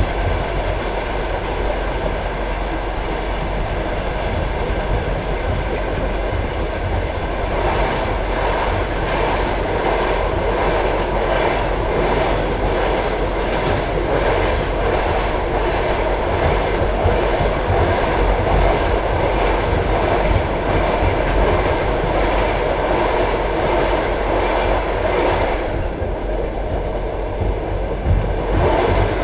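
Passenger train coach running along the track: wheels clicking over the rail joints above a steady rumble. The rumble grows louder about eight seconds in and eases near the end.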